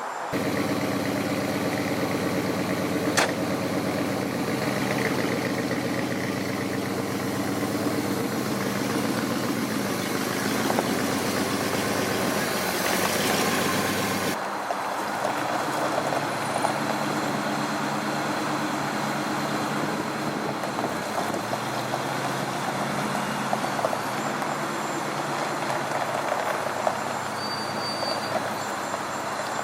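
Pontiac Trans Am's 6.6-litre V8 idling steadily. About halfway through there is an abrupt change in the sound, after which it idles on.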